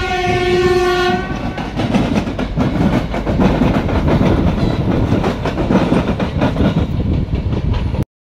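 An ED4M electric train's horn holds one steady note and stops about a second in. Then a train passes close beneath with a dense, rapid clatter of wheels over the rail joints, which cuts off suddenly near the end.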